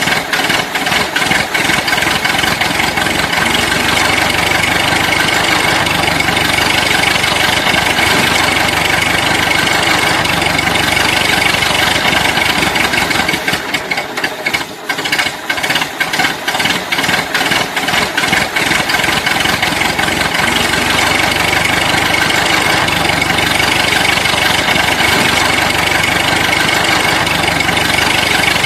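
Toy vehicle's motor running steadily with an engine-like drone, a fast rattle and a steady high whine; it dips briefly about halfway through, then runs on.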